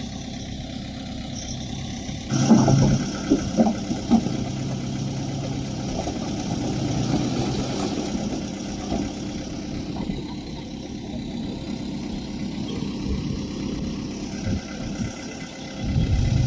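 Diesel engine of earthmoving machinery running steadily, with a quick run of knocks and clanks about two and a half to four seconds in and a louder low rumble near the end.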